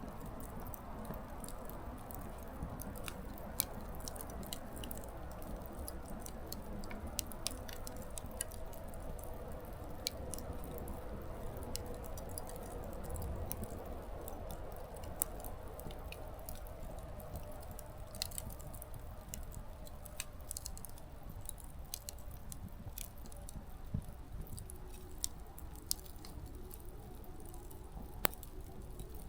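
Small wood fire burning, with irregular sharp crackles and pops from the firewood over a steady low rush of flame.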